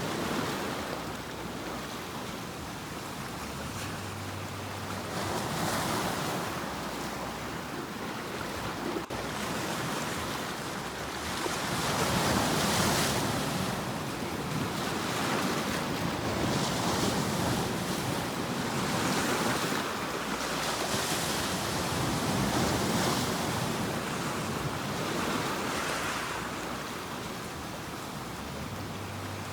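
Sea waves breaking and washing in, a steady surf rush that swells and ebbs every few seconds.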